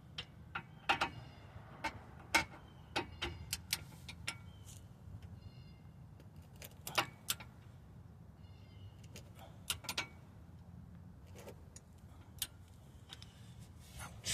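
Irregular metallic clicks and clinks of hand tools and parts being handled during wheel hub and knuckle work, loudest about a second and two and a half seconds in.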